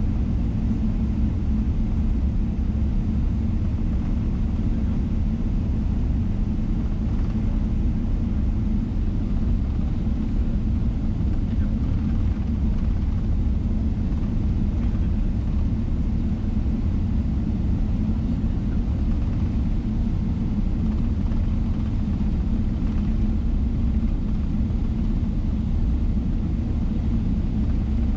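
Steady low rumble of a Boeing 777-300ER's engines, heard inside the passenger cabin.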